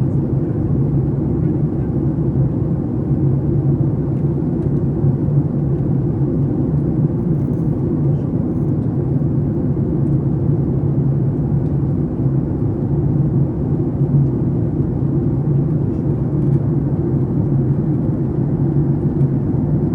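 Steady, loud drone of a Boeing 737 MAX 8's CFM LEAP-1B engines and airflow, heard from inside the cabin.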